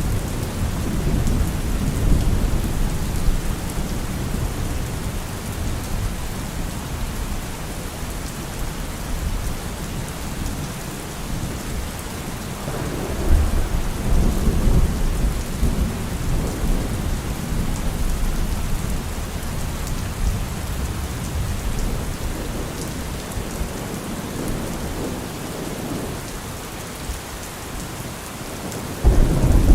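Steady rain with rolling thunder. A low rumble dies away over the first few seconds and another swells about halfway through, then a sudden, louder thunderclap breaks in just before the end.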